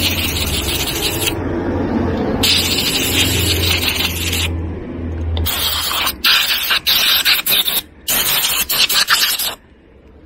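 Rough rubbing strokes in hissy bursts, a long one at the start and another around two to four seconds, then a run of short quick strokes in the second half, over a low hum that stops about halfway through.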